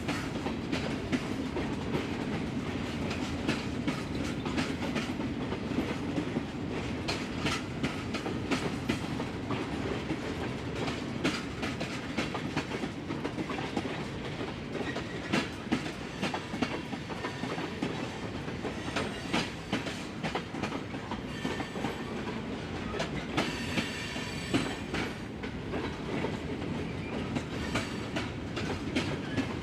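Freight train cars rolling past on jointed track, wheels clicking steadily over the rail joints, with a brief high metal-on-metal wheel squeal near the end.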